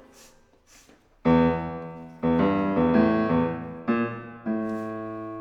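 Solo piano accompaniment playing a short interlude: after a near-quiet moment, a run of struck chords, the last one held ringing.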